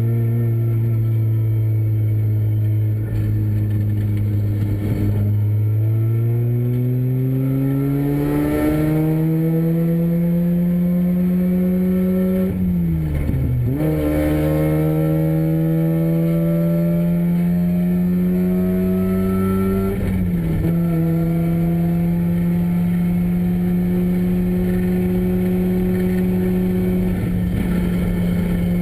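Renesis two-rotor rotary engine in a race car under power. It runs steadily at first, then revs climb from about five seconds in. The pitch drops sharply and recovers about 13 seconds in, dips again near 20 seconds, and then holds high.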